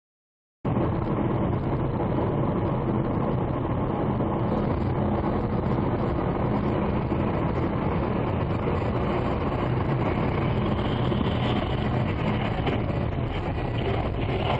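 Steady vehicle running noise, a low rumble of engine and road with no impacts, cutting in abruptly out of dead silence under a second in.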